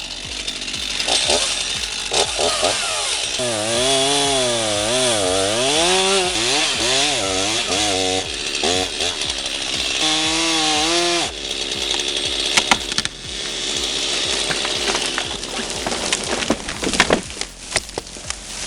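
Chainsaw running with the dense hiss of cutting, its pitch wavering up and down for a few seconds at a time, and a few sharp cracks in the second half.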